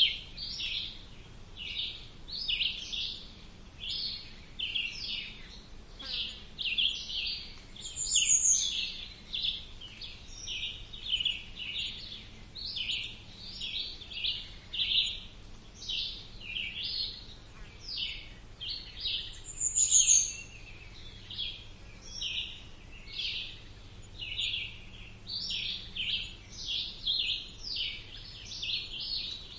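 Many songbirds chirping and singing at once in a dense, unbroken chorus of short calls. A louder, higher, falling call stands out twice, about eight and twenty seconds in.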